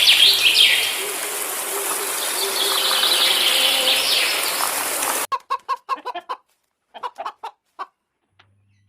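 Birds chirping over a dense rushing noise that cuts off abruptly about five seconds in. Then a chicken clucks in short, separate notes.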